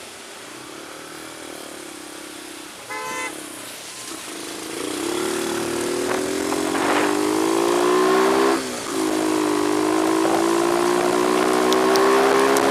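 A motor vehicle's engine accelerating, its pitch climbing, with a brief drop and a renewed climb about three-quarters of the way through, like a gear change. There is a steady hiss of rain and road noise throughout, and a short horn toot about three seconds in.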